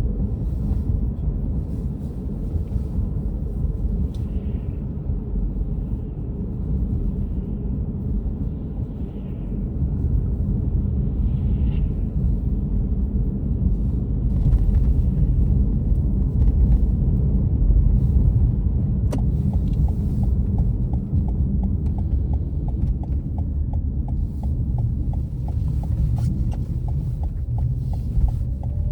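Steady low road and engine rumble heard from inside a moving car. About two-thirds of the way through, a turn-signal indicator starts ticking at roughly two clicks a second.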